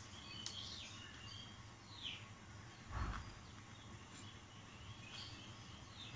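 Faint chirping of small birds, short falling chirps repeating every second or so. A brief dull thump about three seconds in is the loudest sound.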